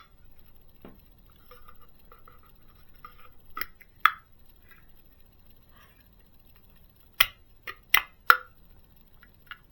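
Handling of small model-kit parts and their plastic packaging: a faint rustle with sharp clicks and taps, two about a third of the way in and a quick cluster of four near the end.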